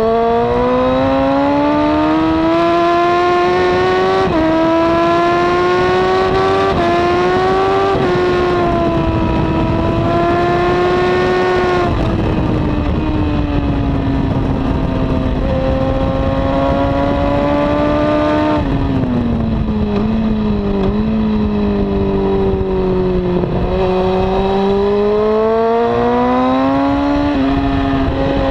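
Honda CBR954RR inline-four with a slip-on exhaust, pulling hard at track speed. The engine note climbs with brief breaks at upshifts around 4, 7 and 8 seconds in, falls and steps down through downshifts in the middle, and climbs again near the end, over a steady rushing noise.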